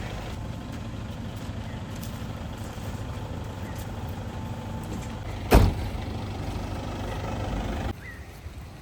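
A vehicle engine idling with a steady low rumble, a single sharp bang about five and a half seconds in, and the rumble cutting off abruptly near the end.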